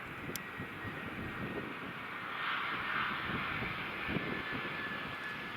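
Jet airliner engines heard at a distance, a faint steady whine with a rushing swell about halfway through, under gusts of wind buffeting the microphone.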